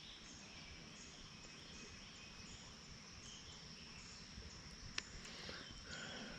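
Faint outdoor ambience: insects buzzing in a steady high drone, with scattered short bird chirps and a single sharp click about five seconds in.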